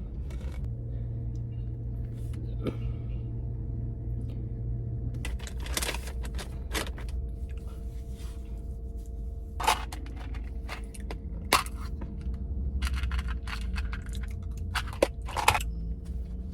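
Scattered crunches, crinkles and clicks of something being handled, over a steady low hum.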